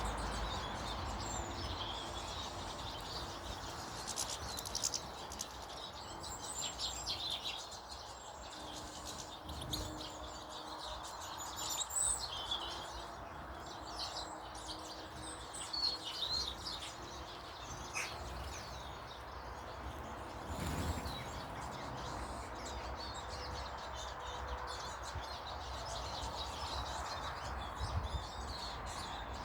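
Small birds chirping and calling in short, scattered high notes, busiest in the first two-thirds, over a steady low background hum.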